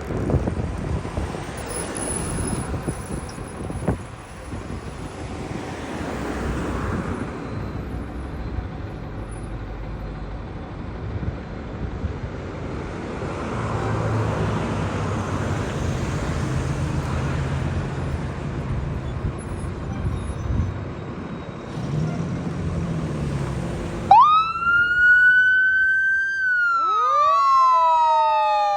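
Engine and road traffic noise, with a low steady engine hum in the middle. About three-quarters of the way in, a fire engine's mechanical Q siren winds up fast to a high steady wail and then starts to wind down, while a second siren tone rises beneath it near the end.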